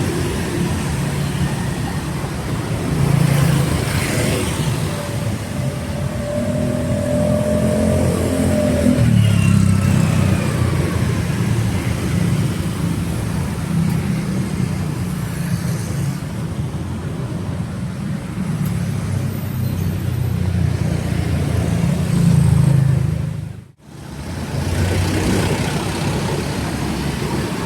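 Street traffic: car engines running and passing at close range, with engine pitch rising and falling as vehicles move by. The sound cuts out abruptly for a moment about 24 seconds in.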